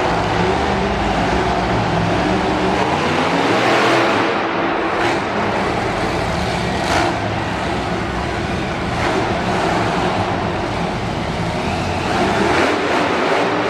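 Monster truck engine running loudly and revving, its pitch rising and falling throughout.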